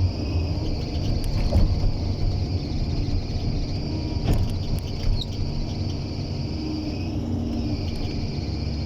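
Kobelco 120 excavator's four-cylinder turbo diesel engine running steadily, with insects droning high and steady over it.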